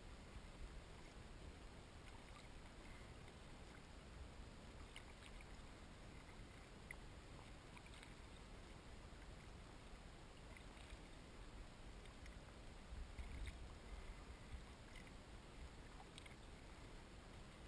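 Faint kayak paddling: quiet paddle dips and water drips every second or two, with a brief low rumble about two-thirds of the way through.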